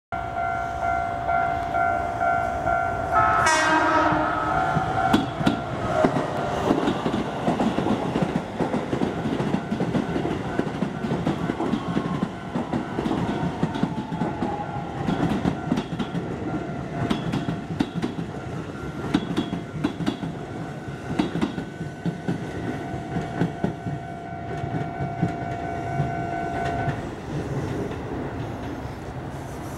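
A Keisei AE100 electric express sounds a short horn blast about three seconds in, then runs past with a steady clickety-clack of wheels over the rail joints that slowly fades as it pulls away. A level-crossing alarm rings at the start and again near the end.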